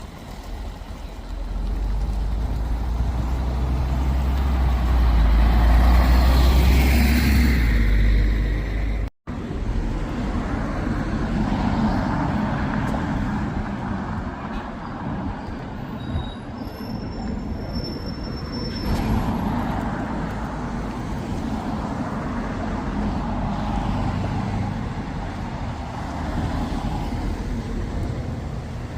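Diesel bus engine and road traffic: a heavy low rumble builds as a bus passes close, cuts off abruptly about nine seconds in, then steady traffic noise with further vehicles going by.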